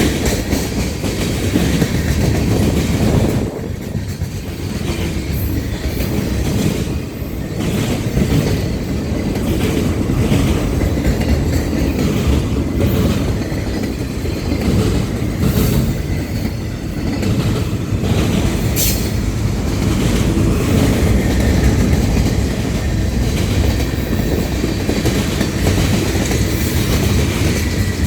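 Freight train rolling past: a steady, loud rumble and rattle of wheels on the rails.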